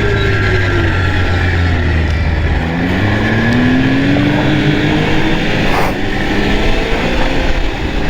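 Arctic Cat Thundercat snowmobile engine running at speed. The revs drop during the first second, climb again around three seconds in, and rise once more near the end. Heavy wind noise on the microphone runs underneath.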